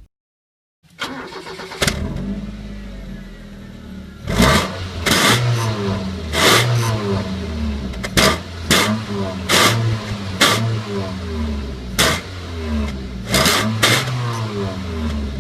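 Car engine fitted with a homemade soda-can exhaust starting about a second in and idling briefly. It is then revved repeatedly in short, sharp blips, each with a raspy crack from the exhaust.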